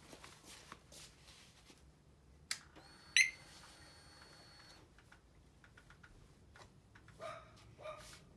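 Motorcycle ignition being switched on before a start: a click, then a steady electrical whine for about two seconds with a sharp tick partway in, a few light clicks, and two short tones near the end.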